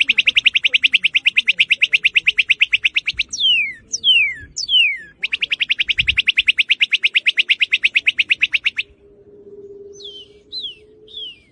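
Northern cardinal singing: sharp down-slurred whistles, then two long rapid trills of repeated notes at about a dozen a second, each lasting about three seconds, with fainter slurred notes near the end.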